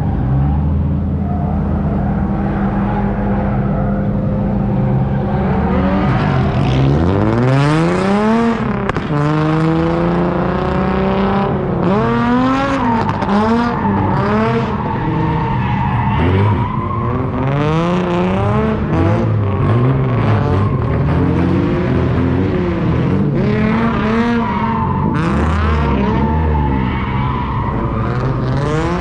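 Drift car's engine running steadily, then revving hard up and down in quick repeated sweeps from about six seconds in, with tyres skidding and squealing through the slides.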